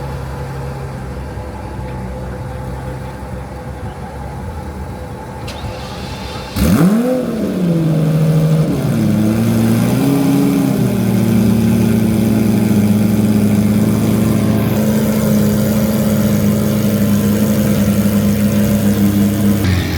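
Lamborghini Murciélago V12 cold start: the engine fires suddenly about a third of the way in, its revs flare up and drop back, then it settles into a steady fast idle. Before it fires, another engine is already idling steadily.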